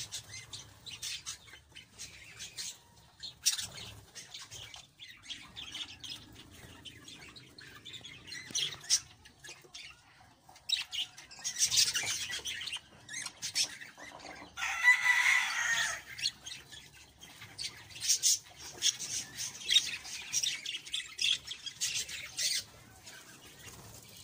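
Budgerigars chattering with many short, high chirps, and one longer, louder call about fifteen seconds in.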